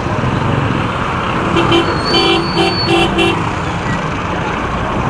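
Vehicle horn giving a quick series of short beeps, about one and a half to three and a half seconds in, over steady motorcycle and road traffic noise in slow city traffic.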